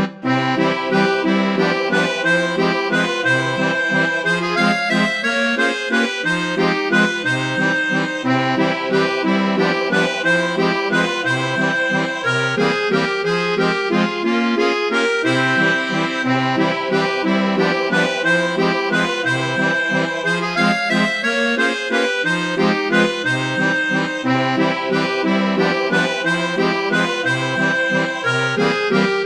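Accordion playing a waltz, the bass notes keeping a steady oom-pah-pah beat under the melody.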